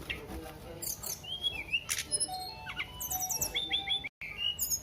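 A tledekan songbird singing busily: a stream of varied sharp chirps, whistled slurs and quick high trills, with a brief dropout a little after four seconds in.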